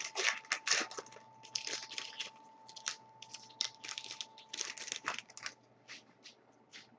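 Hockey card packs being torn open, their wrappers crinkling in quick, irregular bursts for about five seconds before they thin out to a few handling noises.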